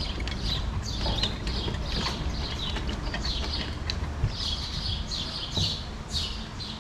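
Small birds chirping over and over, short high chirps coming two or three a second, over a low background rumble.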